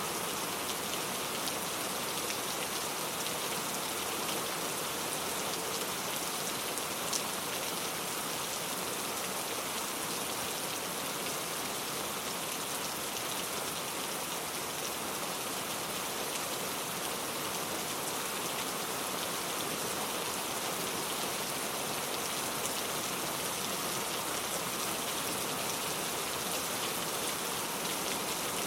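Steady rain falling, an even hiss of drops that does not let up, with one faint tick about seven seconds in.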